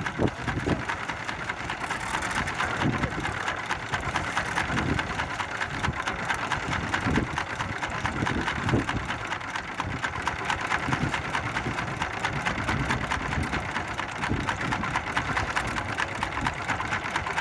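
Small fishing boat's engine running steadily with a fast, even chugging, under irregular low thumps.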